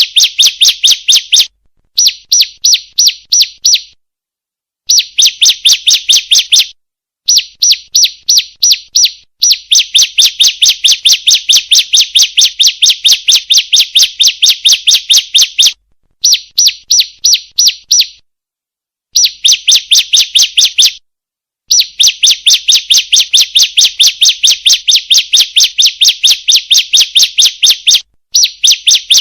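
Female bar-winged prinia (ciblek) calling: a rapid series of high, sharp chirps at about four or five a second, in runs of a few seconds broken by abrupt silent gaps. It is a lure call, used to prompt caged birds to sing.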